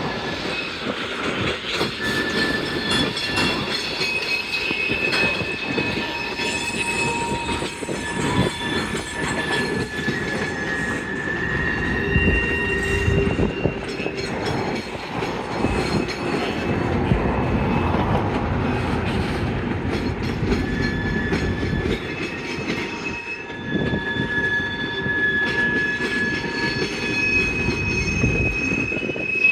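Freight railcars rolling slowly on yard track, their steel wheels squealing in long high tones, several at different pitches one after another, over a steady rumble and wheel clatter.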